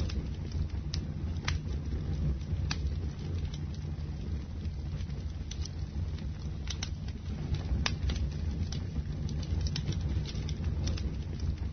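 Wood bonfire burning: a steady low rumble of the flames with irregular sharp crackles and pops.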